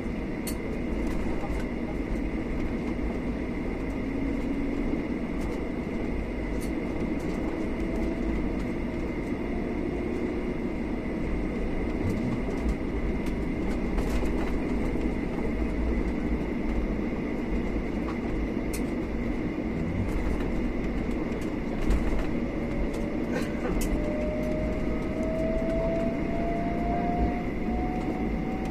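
Cabin noise of a Boeing 737-800 taxiing after landing: a steady rumble from the CFM56-7B engines at idle, with a constant high whine. A tone rises slowly in pitch over the last few seconds.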